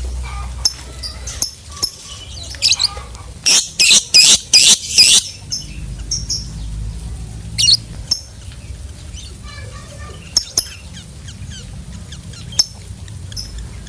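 Lovebird giving shrill, sharp chirps and squawks, with a quick run of about five loud shrieks a few seconds in and softer scattered chirps before and after, over a low steady hum.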